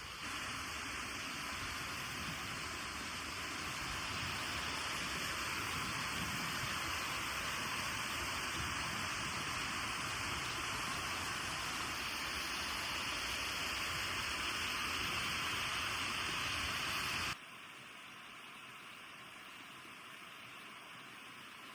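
Steady rush of flowing water from a mountain stream. It cuts off abruptly near the end, giving way to a quieter steady hiss.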